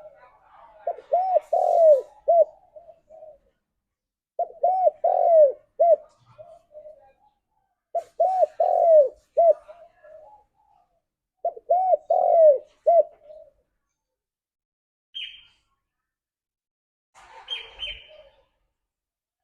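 Spotted dove cooing its multi-note phrase four times, a phrase about every three and a half seconds. A few brief, higher chirps come near the end.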